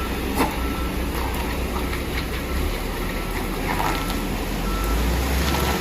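Heavy truck engine running with a steady low rumble under the even hiss of heavy rain. In the second half there are short high electronic beeps, and sharp knocks are scattered throughout.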